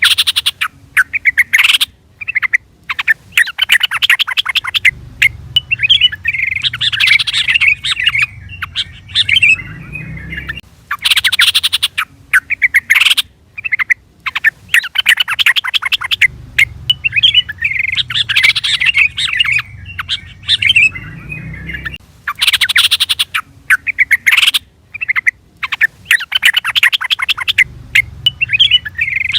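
Yellow-vented bulbul (trucukan) singing, bright bubbling phrases repeated every few seconds with short pauses between them, over a faint low rumble at times.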